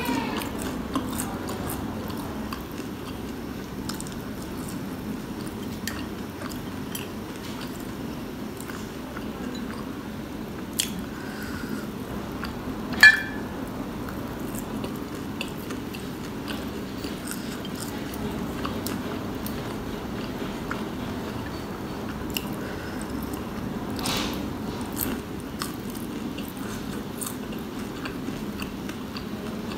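Close-up chewing and biting of onion pakoras (pyaz ke pakore) with chutney: wet mouth sounds and scattered small clicks, with one sharper, louder click about midway.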